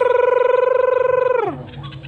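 Truwok bird giving one long, buzzy trilled call on a steady pitch that slides down and stops about one and a half seconds in.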